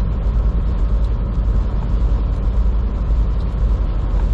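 Inside a semi truck's cab at highway speed: steady low engine drone and road rumble.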